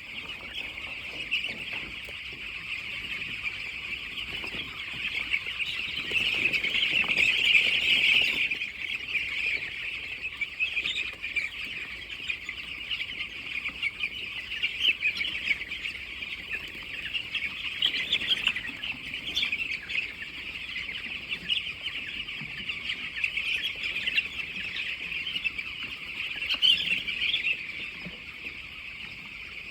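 A flock of poultry chicks peeping together in a dense, continuous chorus of high-pitched peeps, swelling louder for a couple of seconds about six seconds in.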